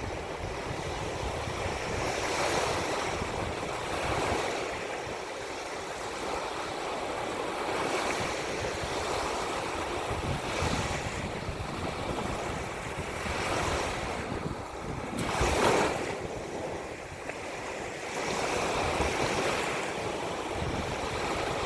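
Ocean surf washing in, swelling and easing every few seconds, with one stronger surge about fifteen seconds in. Wind buffets the microphone with a low rumble throughout.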